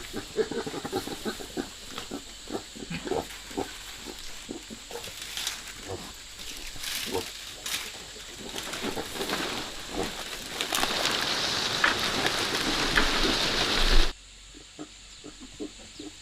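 Pigs grunting in short, repeated sounds. A steady hiss builds up behind them and cuts off suddenly about fourteen seconds in.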